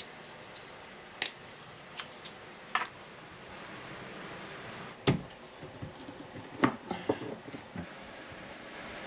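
Scattered light clicks and knocks of plumbing fittings and small parts being handled, the loudest about five seconds in and a quick cluster around seven seconds.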